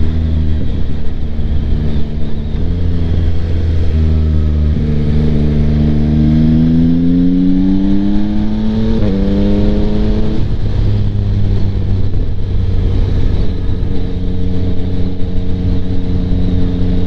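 Yamaha MT-09's 890 cc inline-three engine through a Kelpi Flanker exhaust with the baffle in, running at steady revs while riding. About four seconds in its note rises as the bike accelerates, with a brief break near nine seconds, then drops back to a steady note just after ten seconds.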